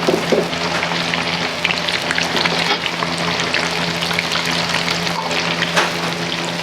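Food sizzling and crackling in hot oil in a restaurant kitchen, a dense run of small pops and spits over a steady low hum.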